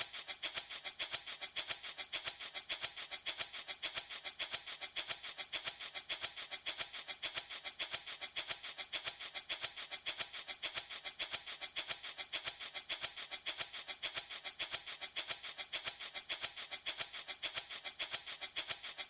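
Handmade baby rattle shaken in a steady, even rhythm, about three strokes a second, with a dry, high rattle of loose beads on each stroke.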